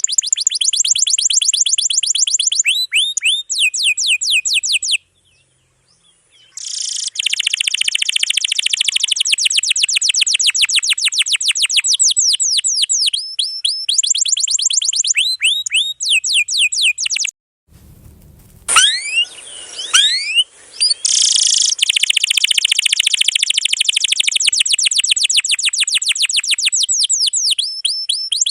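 Domestic canary singing long, fast rolling trills of rapidly repeated high notes, with short breaks between phrases.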